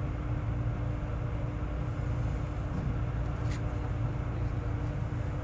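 Harbour ambience at night: a steady low rumble with a constant hum, typical of distant port machinery and ship engines. There is one faint short tick a little after the middle.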